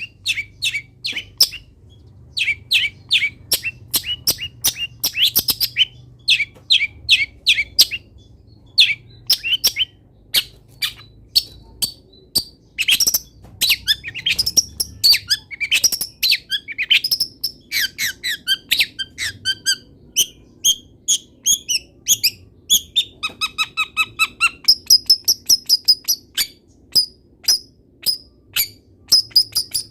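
Long-tailed shrike singing a fast, varied song of short, sharp, high notes, laced with mimicked calls of other wild birds; about 23 seconds in comes a brief buzzy phrase.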